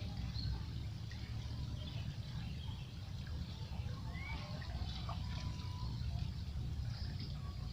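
River water flowing and trickling, a steady rushing noise.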